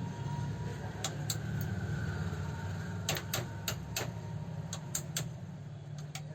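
Overlock sewing machine's electric motor humming steadily, with about ten sharp clicks at irregular intervals.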